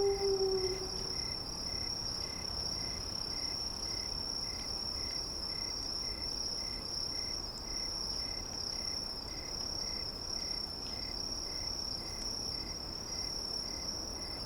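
A steady, high-pitched insect trill like a cricket's, with a fainter chirp pulsing about three times a second beneath it. In the first second the tail of a long howl falls in pitch and fades out. The trill stops at the very end.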